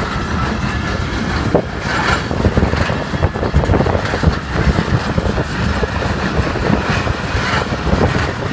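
Passenger train running on the rails: a steady, loud rumble of wheels and coaches with irregular clanks and knocks.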